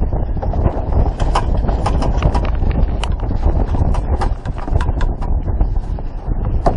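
Sailboat under sail: wind rumbling hard on the microphone, over many quick, irregular knocks and clicks from the boat and the water.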